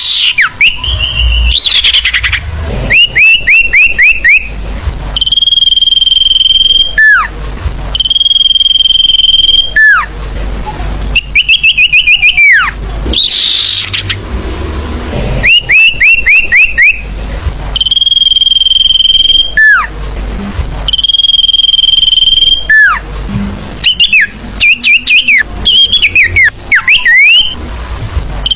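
Sirfu bird song played as a lure call. Quick runs of four or five short rising chirps alternate with long, steady, high whistles that each drop away at the end. The pattern repeats again and again.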